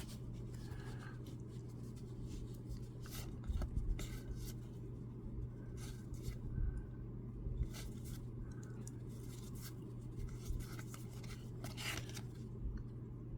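Baseball trading cards being handled and flipped through by hand: soft, scattered slides and clicks of card stock, over a steady low hum.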